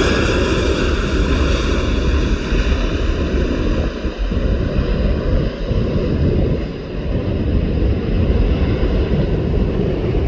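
Jet engines of a passing airliner, most likely a Boeing 737, making a loud, steady noise with a deep rumble. The high hiss fades steadily as the aircraft moves away.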